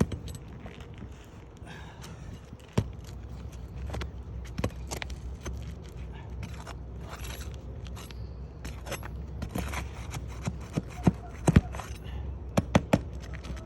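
Irregular scraping, clicking and sharp knocking of objects being handled, over a low steady rumble; the loudest knocks come in a cluster near the end.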